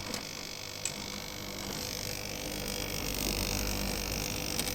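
Blyss dehumidifier running with a steady fan and motor hum and a small click about a second in. It makes an extra noise the owner has not yet traced and suspects comes from somewhere at the back.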